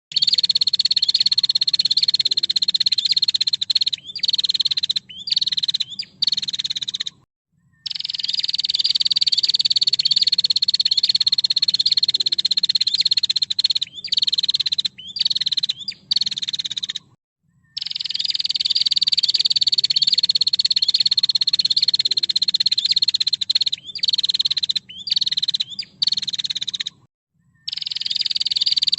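Female prenjak (prinia) giving its rapid buzzing trill. The runs last several seconds and ease slightly down in pitch, with choppier stutters between them and three short dead gaps about every ten seconds.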